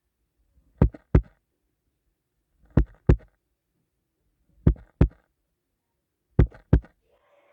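A heartbeat sound: slow, deep lub-dub double thumps, four pairs evenly spaced about two seconds apart.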